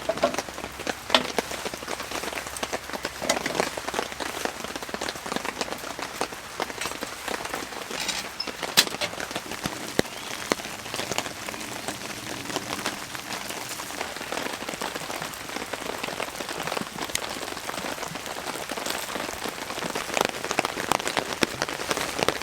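Heavy rain falling on a tent, heard from inside: a dense, steady hiss of countless small drop impacts with a few louder single drips.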